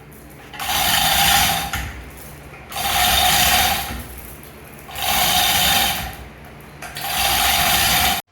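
A power tool run in four bursts of a little over a second each, about two seconds apart, each a hissing whine with a steady tone.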